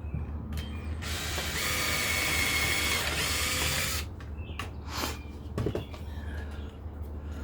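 Power drill boring a pilot hole into hard maple for about two and a half seconds, starting about a second in, with a steady whine over the noise of the bit cutting. Some clicks and knocks from handling the tool and the wood come before and after.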